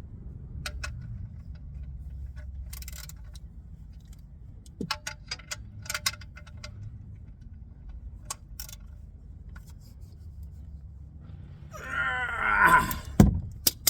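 Scattered metallic clicks and clinks of hand tools working a car's oil drain plug, over a low rumble. Near the end comes a louder groan that falls in pitch for about a second, followed by a couple of sharp clicks.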